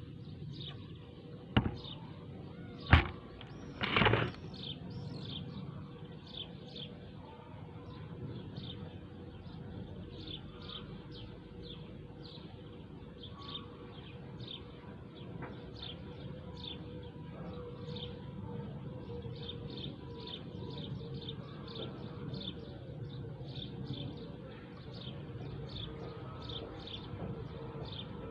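Small birds chirping, a steady run of short high notes that comes several a second at times, over low background noise. Three sharp knocks sound within the first few seconds.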